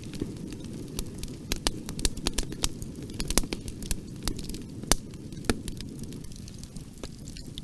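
Wood fire burning in a fireplace: a steady low rumble of flames with irregular sharp crackles and pops, a few louder snaps about three and a half and five seconds in.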